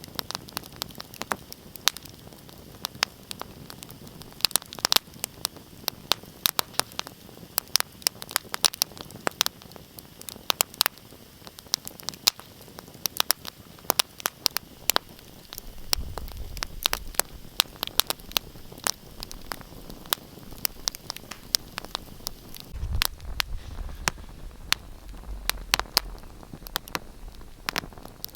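Wood fire crackling in a fireplace: dense, irregular sharp pops and snaps over a steady hiss, with a low rumble coming in about halfway through and again near the end.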